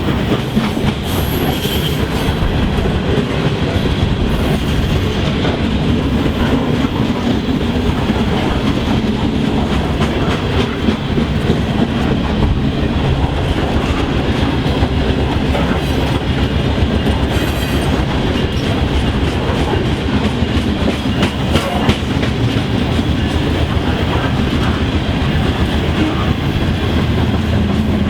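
A train rolling past: a steady, loud rumble of wheels on the rails, with many clicks as the wheels cross rail joints.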